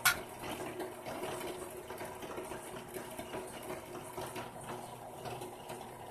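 A small electric motor running steadily with a steady hum, after a sharp click at the very start.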